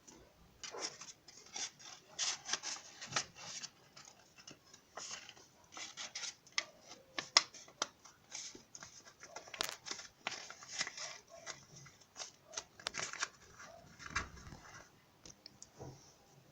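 Scissors cutting paper: a run of irregular snips with paper scraping and rustling between them.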